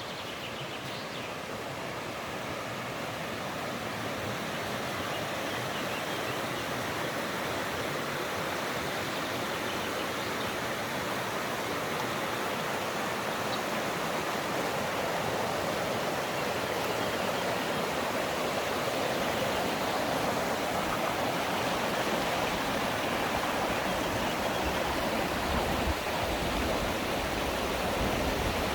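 Steady rushing of a mountain stream, growing gradually louder.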